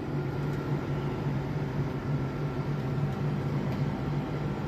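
Air conditioner outdoor condensing unit running, a steady low hum with a faint high tone over it.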